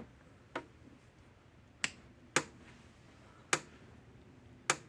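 American Farmworks 120 mile electric fence charger clicking as it pulses, five sharp clicks about a second apart, the last few evenly spaced: the repaired unit is running.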